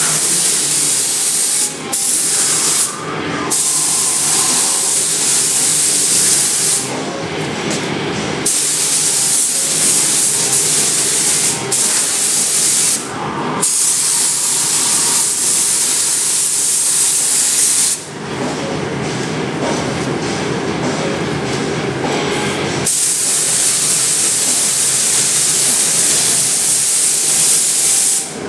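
Compressed-air paint spray gun hissing as it sprays epoxy primer onto bare metal spots, in long passes of several seconds with brief pauses where the trigger is released.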